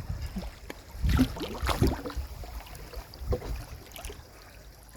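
A small boat on a river: a low rumble with scattered knocks and splashy water sounds, loudest about a second in and again just past three seconds.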